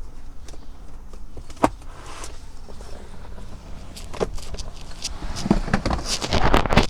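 Footsteps and scattered knocks over a low background rumble, one sharp knock early and a louder, busier run of knocks and scuffs in the last second and a half.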